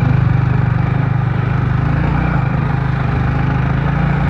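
Motorcycle engine running steadily under load while climbing a steep hill track.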